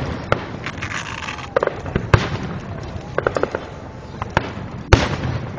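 Aerial fireworks shells bursting over water: several sharp bangs, the loudest near the end, with bursts of crackling in between.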